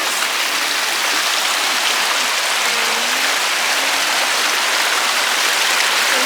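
Shallow river water rushing over rocks, a loud, steady hiss of flowing water close to the microphone.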